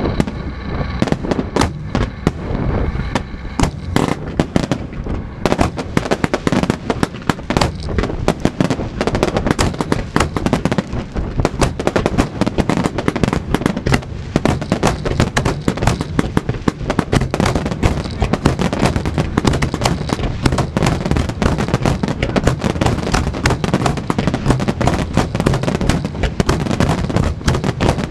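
Fireworks display: a dense barrage of bangs and crackles that thickens about five seconds in into a nearly continuous, rapid volley.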